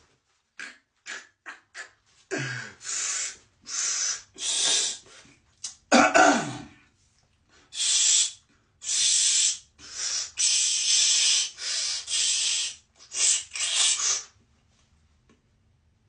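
A person breathing loudly and forcefully: a run of breathy exhales, short at first and then longer, with a brief voiced sound falling in pitch about six seconds in.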